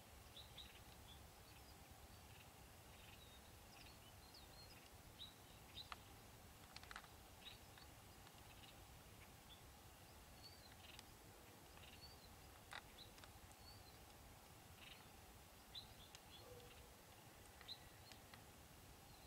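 Near silence, with faint, scattered short bird chirps throughout and a faint steady hum underneath.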